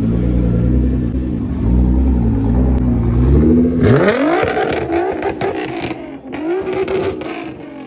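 A car engine running at low revs with a deep rumble, then revving up hard about four seconds in: the pitch climbs quickly and holds, dips briefly, climbs again and falls away near the end.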